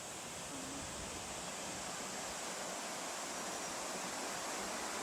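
Rushing water of a waterfall: a steady hiss that grows slowly louder.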